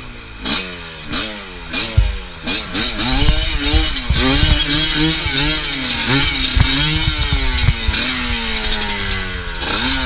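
MXF off-road motorcycle engine revved up and down over and over, its pitch climbing and dropping about once a second and holding steadier for a couple of seconds near the end, with scattered knocks and clatter.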